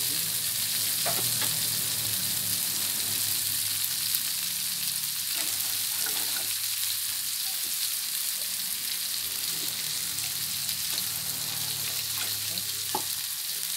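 Chopped tomato and spice paste frying in oil in an aluminium wok: a steady sizzle, with a few short clicks of the metal spatula against the pan.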